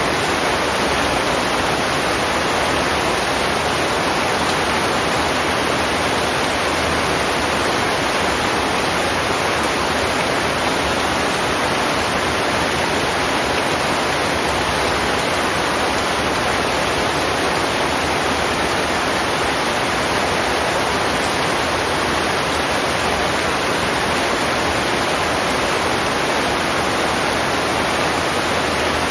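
Steady heavy rain, a dense even hiss with no breaks or changes.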